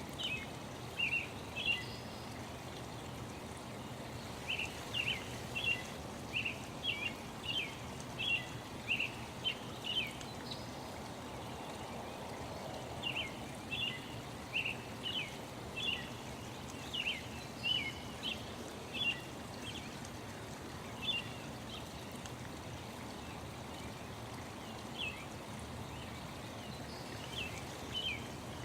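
Small birds chirping in quick runs of short, sharp notes, with lulls about a third of the way in and again in the later part, over a steady rushing sound like a flowing stream.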